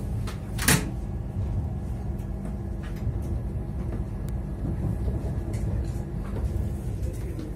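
Stadler ЭШ2 double-decker electric train running, heard from inside the passenger car: a steady low rumble with a faint even hum, light rattling ticks, and one sharp knock about a second in.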